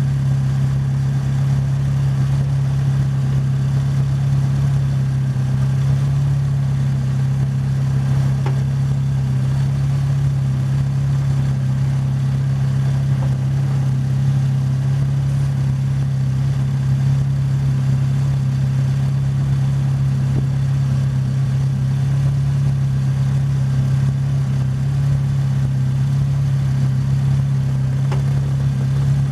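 Formula Ford single-seater's engine idling steadily while the car stands still, a constant low hum with no revving.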